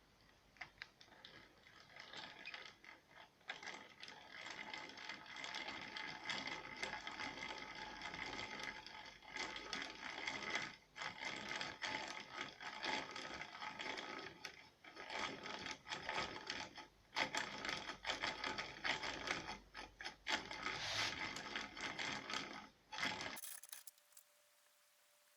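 A woodworking tool working wood in quick, irregular strokes with many small clicks, stopping suddenly about 23 seconds in.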